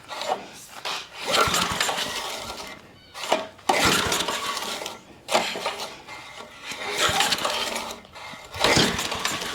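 Recoil starter of an old Craftsman tiller's Briggs & Stratton engine being pulled repeatedly, about six pulls, each a rattling rush of cranking that dies away without the engine firing. The engine has sat for five years on old gas and will not catch.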